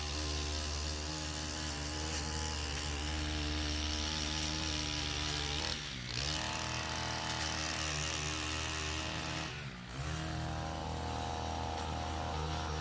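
Small gas engine of a handheld lawn tool running at high throttle, the revs dropping briefly twice, about six and ten seconds in, then picking straight back up.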